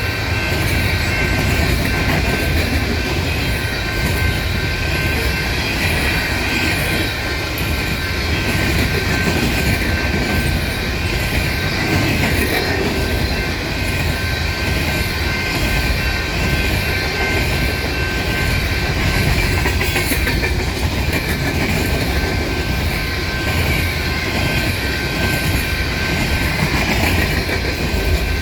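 Freight train of coal cars rolling steadily past, wheels clicking over the rail joints with a faint, thin wheel squeal.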